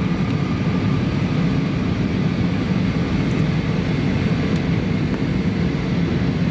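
Steady cabin noise of an Airbus A320 descending on approach to land: engine and airflow noise at an even, unchanging level, mostly low and rumbling, with a faint steady hum above it.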